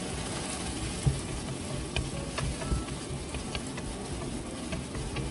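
Sardines and tomatoes sizzling in a frying pan while a wooden spatula stirs them, with several sharp knocks of the spatula against the pan, the loudest about a second in.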